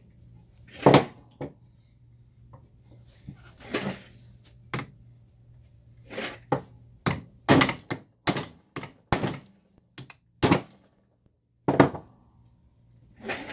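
About a dozen separate hammer blows on the bent metal chassis of a Leslie 122 amplifier, knocking the punched-in section back into shape. The blows come at an irregular pace, faster near the middle of the stretch.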